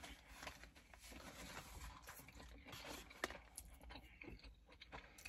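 Faint chewing of a blackened mahi mahi fish taco: soft mouth sounds with a few small clicks.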